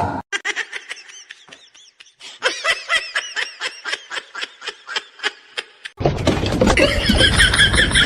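Laughter in a quick run of short, rhythmic 'ha' pulses, about three or four a second. About six seconds in it gives way abruptly to a louder, dense mix of noise and higher-pitched sounds.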